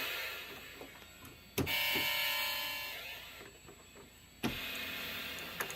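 Homemade PWM polyphonic synth engine on a Teensy 3.2 playing sustained chords through a small speaker, notes held by the sustain pedal. Two new chords start with a sharp click, at about a second and a half and again near four and a half seconds, and each fades slowly.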